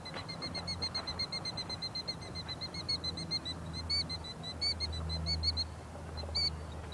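A bird calling: a fast run of short, high notes, about seven a second, then a few louder single notes near the end. The bird is grounded with wings that look cut.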